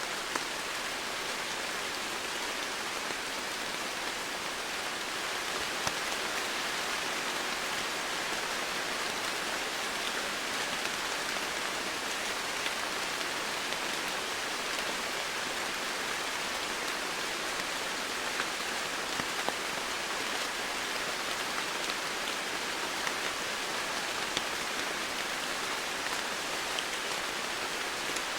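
Steady rain falling, a constant hiss with scattered individual drops ticking throughout.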